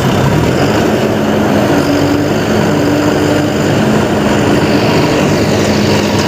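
A vehicle engine drone running steadily and loud, with a faint wavering hum in it.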